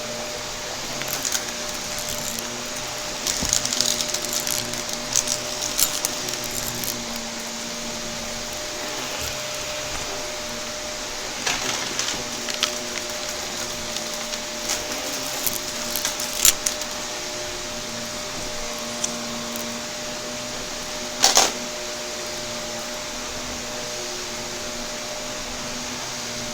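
Shark vacuum cleaner running with a steady hum, broken by clusters of sharp crackles and clicks as crunchy debris is sucked up, with one loud snap about 21 seconds in.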